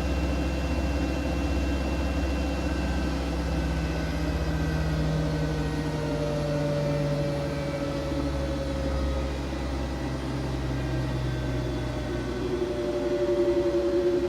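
Siemens Siwamat IQ 716 washing machine running: its motor whines as several steady tones drift slowly lower in pitch over a low hum.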